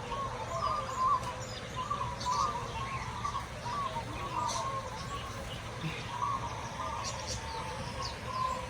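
A flock of small aviary birds chirping and twittering: a continuous run of warbling calls, with short, sharper high chirps scattered over it, against a low steady background rumble.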